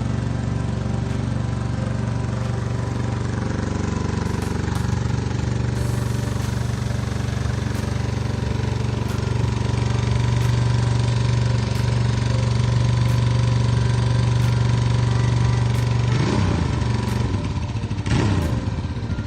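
Ducati 750 SS air-cooled V-twin motorcycle engine running at steady revs, then revved up and back down twice near the end.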